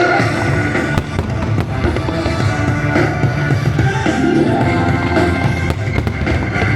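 Loud music with drums playing as a fireworks show's soundtrack, with firework bangs over it.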